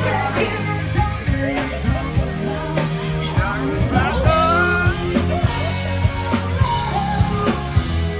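A live rock band playing: drums, bass, electric guitar and a singer.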